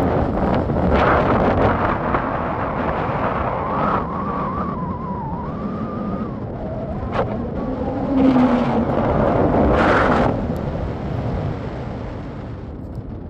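Strong wind buffeting the phone's microphone in gusts, with a faint wavering whistle in the middle.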